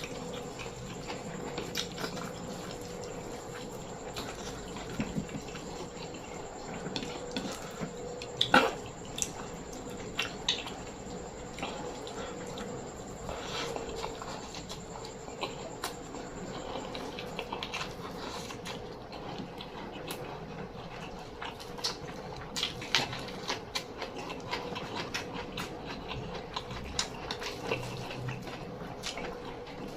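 Close-miked sounds of a person eating: chewing and wet mouth noises with many scattered small clicks, one sharper click about eight and a half seconds in, over a faint steady hum.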